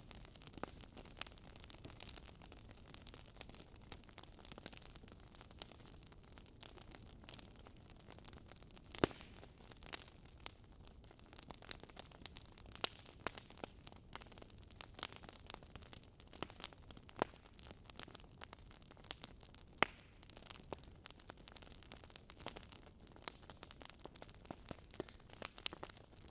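Wood fire crackling in a fireplace: a low steady hiss with frequent irregular small crackles and a few louder pops.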